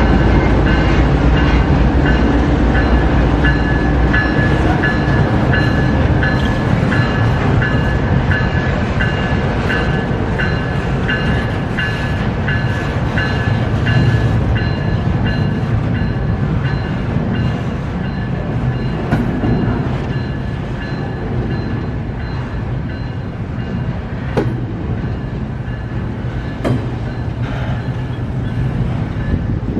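Freight train cars rolling past: a steady low rumble of wheels on rail with a high ringing squeal that pulses on and off, fading out in the second half, and a few sharp clicks near the end.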